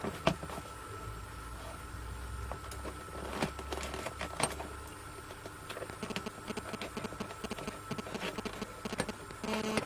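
Scalpel blade picking and scraping at the cardboard door of an advent calendar: faint scratches, small clicks and a few sharper taps, with hand-held camera handling noise.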